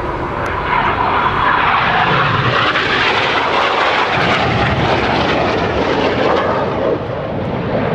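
Jet roar of the Red Arrows' BAE Hawk trainers passing in formation during a display, a loud rushing noise that swells about a second in and stays loud.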